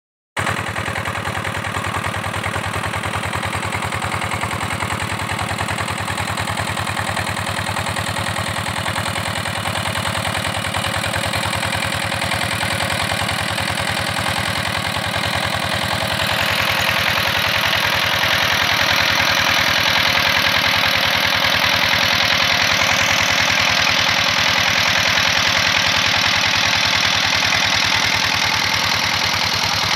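Diesel engine of a tubewell pump running steadily with a rapid, even beat. About halfway through the sound gets a little louder and harsher and then holds steady.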